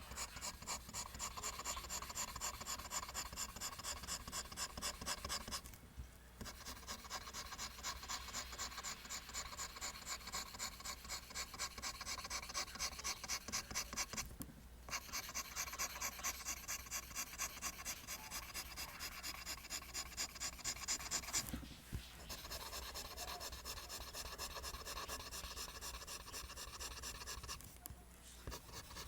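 Pencil scratching on paper in quick, evenly repeated strokes as lines are drawn over and over, with three short breaks in the strokes.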